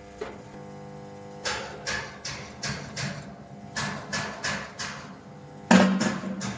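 Metal being hammered in runs of quick, ringing blows, about three a second, the loudest near the end, over a steady low hum.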